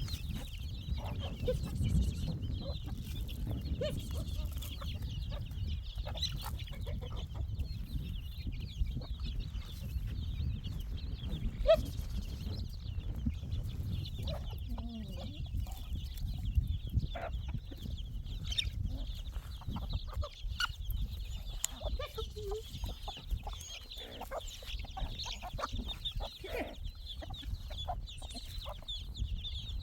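Chickens clucking on and off over a steady low rumble.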